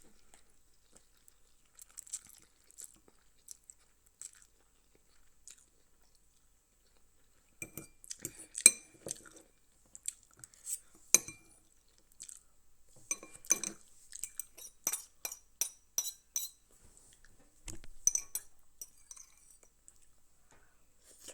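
Noodle-eating sounds: utensils clicking and clinking against a bowl, mixed with chewing. Mostly quiet for the first several seconds, then a busy run of sharp clinks through the middle and later part.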